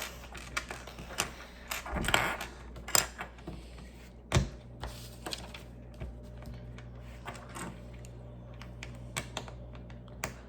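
Plastic Lego pieces clicking and rattling as they are handled and fitted together: irregular sharp clicks, thicker in the first few seconds and sparser later.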